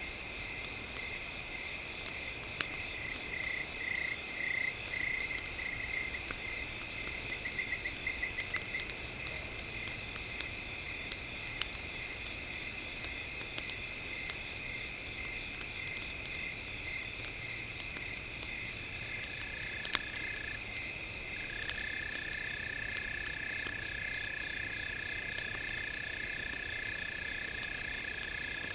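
A steady, high-pitched chorus of night-calling insects and frogs, with scattered crackles and pops from a wood fire. A pulsing trill rises out of the chorus early on, and a single long steady call holds through the second half. The sharpest pop comes about two-thirds of the way in.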